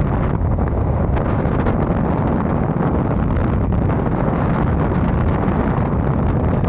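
Wind buffeting the microphone on a moving motorbike, a steady rumble with the bike's running and road noise underneath.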